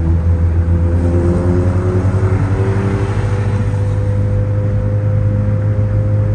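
Turbocharged Honda Civic's four-cylinder engine running steadily, its pitch rising slightly.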